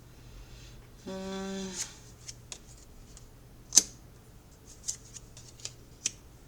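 Tarot cards being handled and laid out, with a series of sharp card snaps and clicks, the loudest near the middle. A short hum about a second in.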